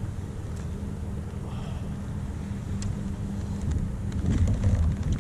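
Wind rumbling on the microphone, with a faint steady hum under it and a few small clicks, getting a little louder near the end.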